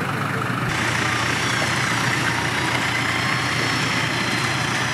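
Land Rover Defender engine idling steadily. The background noise changes abruptly less than a second in.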